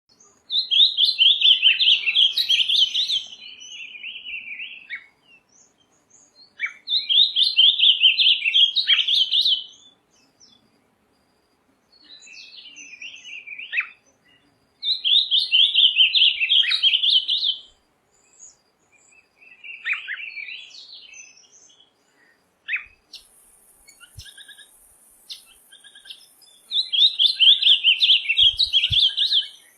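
A songbird singing four loud phrases of rapid, high trills, each about three seconds long, with shorter, softer phrases between them.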